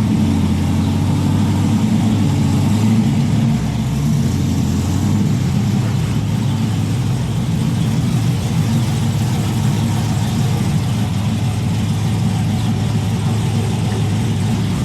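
Mazda Miata's four-cylinder engine running as the car is driven, a steady low engine hum with a little more throttle in the first few seconds.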